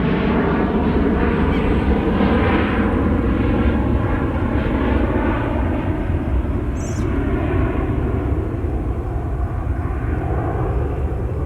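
Jet airliner engines running loud as a plane passes, easing off over the second half. A brief high chirp about seven seconds in.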